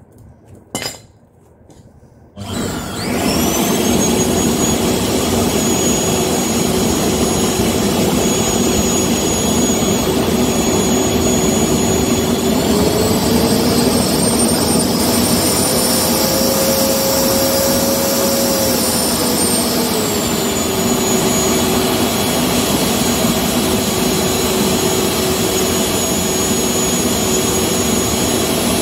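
Electric air blower of a homemade waste engine oil stove starting up about two seconds in after a click, then running with a steady whine and rushing air, the forced-air burn of the stove. Around the middle its pitch rises for several seconds, then drops back to the first speed.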